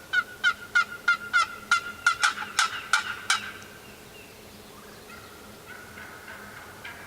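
Turkey yelping: a run of about eleven sharp yelps, roughly three a second, growing louder, then fainter calls from about five seconds in.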